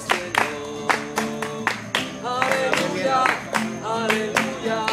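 Man singing a Bolivian song over strummed guitar, with a steady beat of sharp strokes about three a second.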